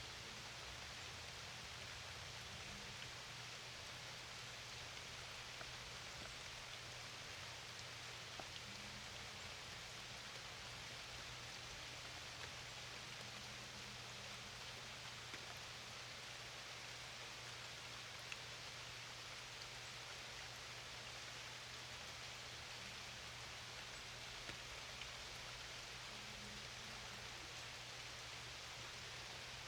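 Steady rain falling on a lake: a soft, even hiss of drops with a few louder single drops standing out now and then.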